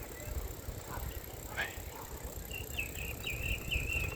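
Wind rumble on the microphone of a moving bicycle ride, with faint scattered sounds, and in the second half a quick run of short high chirps.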